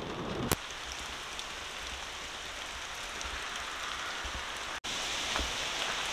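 Steady rain falling outdoors, an even hiss with scattered louder drops; the hiss gets a little louder after a short break near the end.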